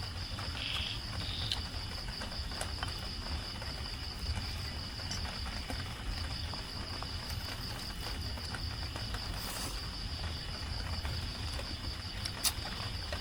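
Crickets chirping in a steady, rapid high-pitched pulse, over a low steady rumble and a few faint clicks.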